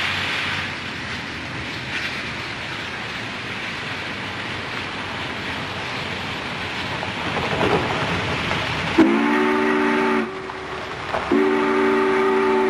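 Steam locomotive chime whistle sounding two blasts of several tones together, the first about a second long and the second nearly two seconds, near the end. Before the blasts there is a steady hiss.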